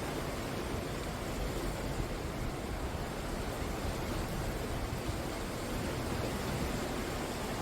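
Sea surf breaking on the shore, a continuous steady wash of wave noise with no single crash standing out.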